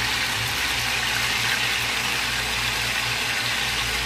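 Whole chicken frying in hot oil in a pan, a steady sizzle, with a low hum underneath.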